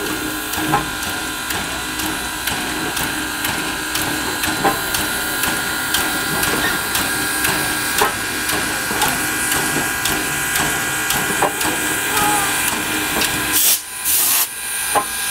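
Railroad turntable turning under its drive motor: a steady mechanical hum with irregular clicks and knocks throughout. Near the end it breaks off suddenly, with a short hiss and a knock.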